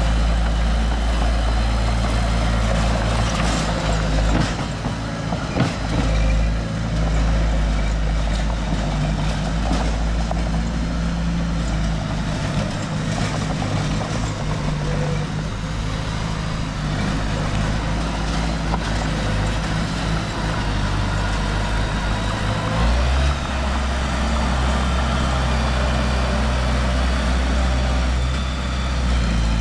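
Heavy diesel construction machine's engine running steadily, its note shifting lower and stronger about three-quarters of the way through, with a few sharp knocks a few seconds in.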